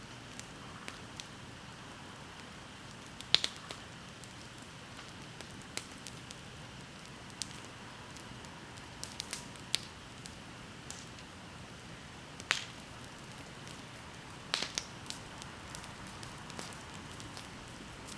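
Wood bonfire crackling under a soft steady hiss, with irregular sharp pops, the loudest about three seconds in and two more strong ones near the end.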